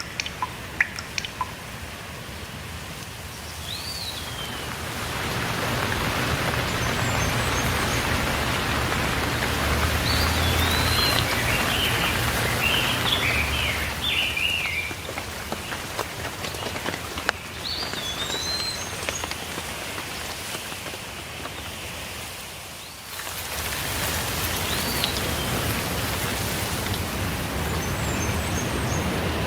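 Steady rain with birds chirping over it now and then. A cluster of chirps comes about ten to fifteen seconds in, and single calls come later. The rain starts with a few drips, thickens about five seconds in and thins briefly a few seconds before the end.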